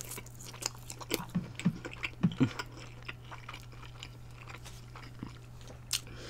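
Close-up chewing and mouth sounds of a person eating food, wet clicks coming thickly at first and then thinning out, over a low steady hum.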